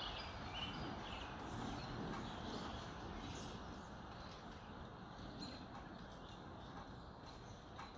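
Several songbirds chirping and whistling together in a dawn chorus, short high calls overlapping over a steady background hiss.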